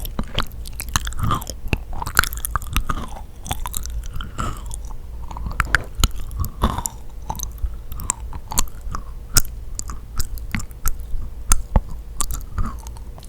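Close-miked chewing of sticky, chewy yakgwa (Korean honey-fried cookie): a continuous stream of irregular wet, sticky clicks and smacks of the mouth working the dense dough.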